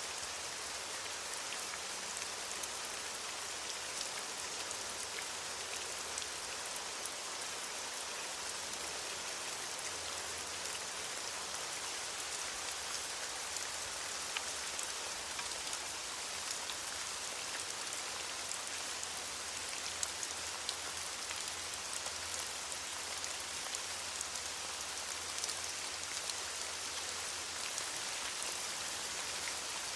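Steady rain falling on leaves: a constant hiss with many small drop patters throughout.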